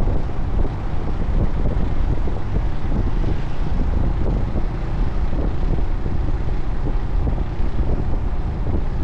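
Wind buffeting the microphone on a moving motorcycle, with the engine running underneath in a steady rumble.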